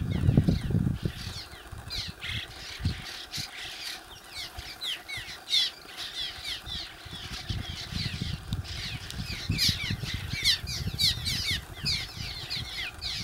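A flock of birds chirping, a dense chatter of many short, quick notes that each fall in pitch, over a low rumble that is loudest in the first second.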